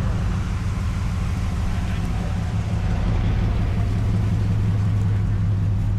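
Car engine running at low speed, a steady low rumble that grows a little stronger about halfway through.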